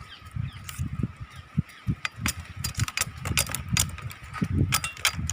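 Knife cutting thorns from date palm fronds: a string of short, irregular sharp cuts and snaps. Wind gusts buffet the microphone as a low rumble, and a faint steady high tone runs underneath.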